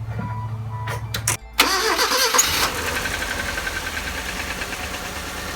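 Engine cranked by the starter for about a second and a half, then catching and firing up with a brief rev before settling into a steady idle. After the repair of a leak it runs evenly, with no misfire.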